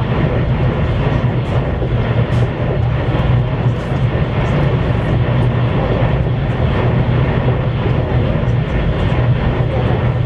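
CRH1A-A high-speed electric multiple unit running along the line, heard inside the passenger car as a steady, loud rumble of wheels and running gear with a low hum and faint ticks.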